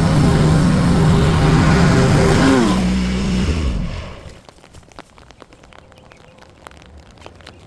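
An engine running steadily, then shut off about three seconds in, its pitch falling as it winds down to a stop. Faint scattered ticks follow.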